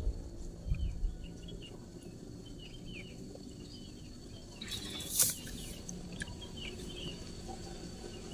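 Small birds chirping over and over in short falling chirps. There are a few low bumps in the first second, and a louder brief rustle about five seconds in.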